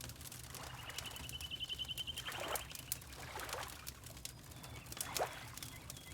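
Fireplace crackling with water lapping in three soft splashes, while a bird gives one rapid high trill lasting about two seconds, starting about a second in.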